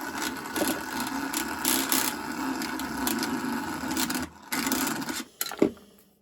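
Soldering iron tip being scrubbed back and forth in a tip cleaner, a continuous rough scraping with a short pause a little after four seconds and a single knock near the end.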